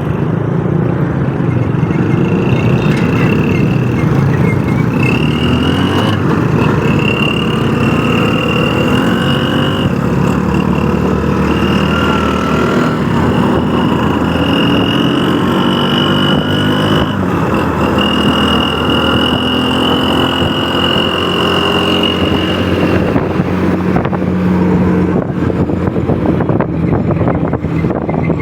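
A motor vehicle running steadily, with a high, steady whine held for several seconds at a time over a low rumble.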